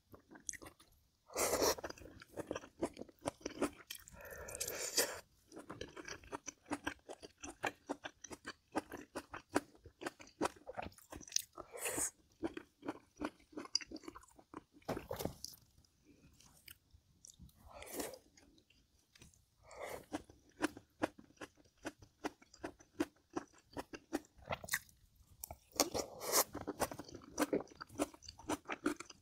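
Close-miked chewing and crunching of food in a mukbang, a dense run of quick wet mouth clicks with occasional louder bites.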